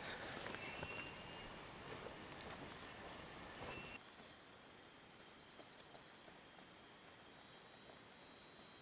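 Faint, high-pitched bird chirps over quiet outdoor background noise, with a quick run of about six short notes about two seconds in and scattered single notes later.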